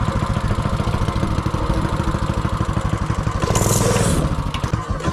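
Mini bike's 196cc single-cylinder engine running with a steady, rapid beat of firing pulses. It gets louder for a moment about three and a half seconds in.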